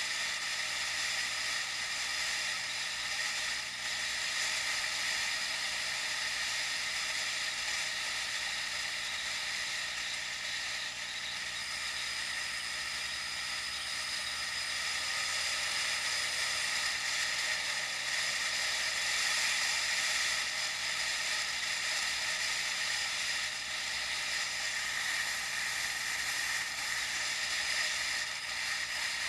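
Steady hiss of moving air and tyre noise from a bicycle ride, heard through an action camera's small built-in microphone.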